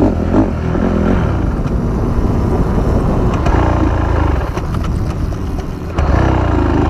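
Dirt bike engine running steadily during a ride.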